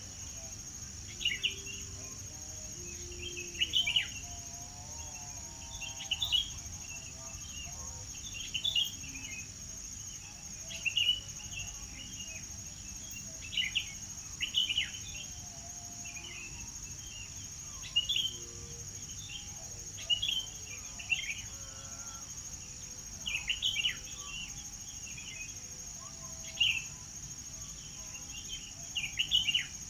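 Birds singing in short chirping phrases every second or two, over a steady high-pitched insect drone.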